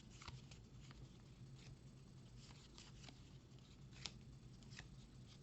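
Near silence with faint, irregular clicks and light rustles of trading cards being handled and flipped through, over a steady low room hum.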